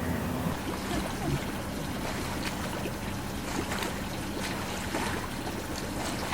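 Cruise boat's motor running at a steady low idle, with water lapping and trickling against the hull and a few faint scattered ticks.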